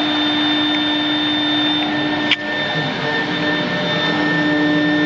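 CNC router spindle running with a steady high whine, cutting plastic corrugated board. A sharp click comes a little over two seconds in, and the tone dips briefly, after which a lower hum joins the whine.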